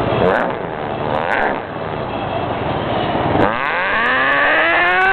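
Steady scooter riding noise with two short whines from a dog. About three and a half seconds in, a long drawn-out howl begins, rising in pitch and then holding.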